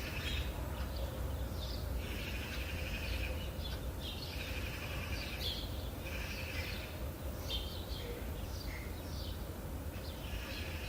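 Birdsong: short warbled phrases, each about a second long, repeated every couple of seconds over a steady low background rumble.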